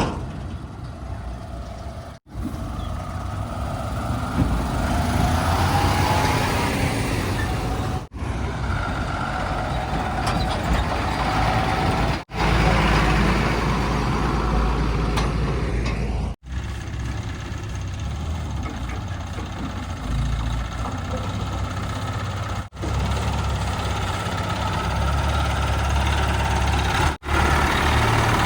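Heavy diesel engines of earthmoving machinery and trucks running under work, with a deep rumble and shifting mechanical whine. The sound breaks off abruptly six times and resumes at changed pitch and level.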